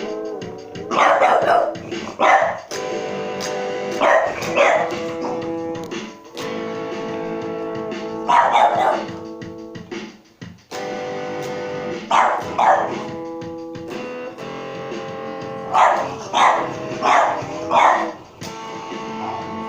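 Guitar chords ringing out steadily while a dog barks over them in short bursts, singly or two or three at a time every few seconds, agitated by the playing.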